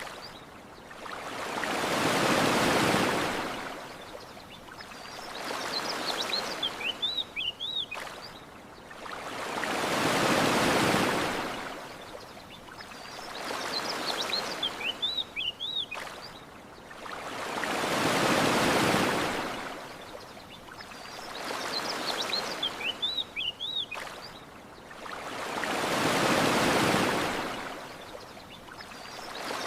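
Ocean waves washing onto a shore. A larger wave rushes in and fades about every eight seconds, with a smaller swell between. Short bird chirps sound in the lulls, and the whole pattern repeats identically as a loop.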